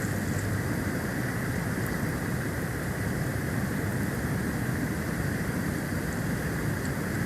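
Steady rushing storm noise of a snowstorm picked up by an outdoor nest-cam microphone, heaviest in the low end, with a few faint ticks.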